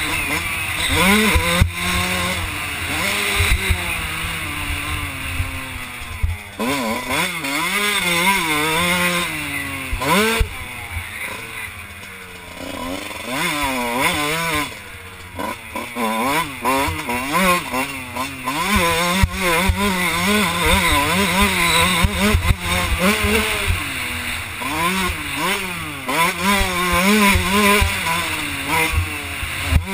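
2001 Kawasaki KX125 single-cylinder two-stroke engine revving hard and dropping back again and again as the bike is ridden around a motocross track, with a lower, quieter spell about halfway through. Wind buffets the helmet-mounted microphone.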